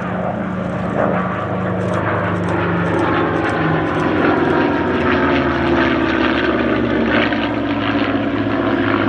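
Packard-built Merlin V12 engines of P-51D Mustang warbirds flying a display pass, a continuous propeller drone that swells gently and shifts slowly in pitch.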